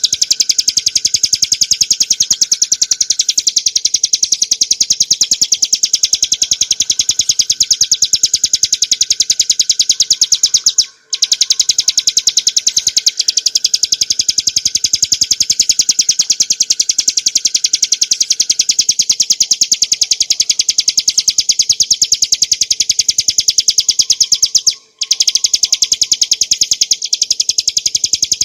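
Ciblek gunung, a small prinia, singing a rapid, unbroken run of high-pitched repeated notes. The song stops briefly twice.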